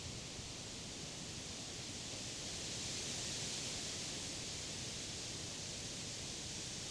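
Wind blowing through the leaves of summer trees: a steady rustling hiss that swells a little about three seconds in, then eases slightly.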